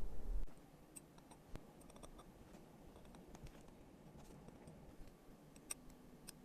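Faint, scattered small clicks and taps from watch-repair tools and tiny watch parts, after a low rumble that stops about half a second in.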